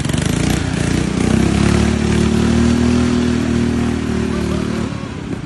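Small tractor engine revving up over the first couple of seconds, holding steady at higher revs, then dropping back near the end.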